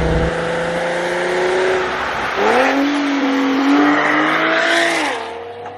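Infiniti G37's V6 through a Motordyne resonator exhaust, accelerating hard: a steady note, then a sharp climb about two and a half seconds in, held, and falling away and fading near the end.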